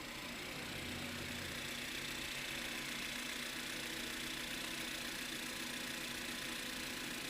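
Car engine idling steadily, at the close of a pull-down and rebuild: the rebuilt engine running.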